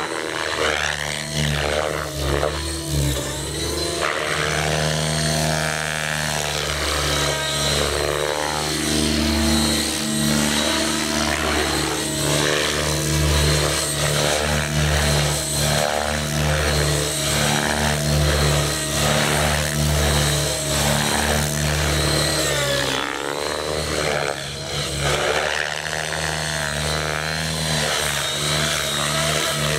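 Align T-REX 700 DFC electric RC helicopter in flight: the main rotor and electric motor give a steady buzzing whine that rises and falls in pitch as it manoeuvres and passes.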